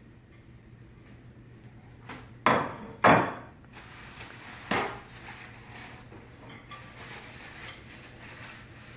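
Three hard clatters, the first two close together and the second the loudest, each ringing briefly: a microwave turntable plate and its ring being knocked and set down at a sink.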